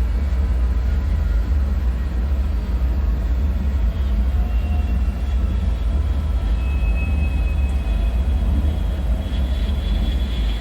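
Dark-ambient bunker soundscape: a steady deep rumble, with faint thin high whining tones drifting in and out partway through and again near the end.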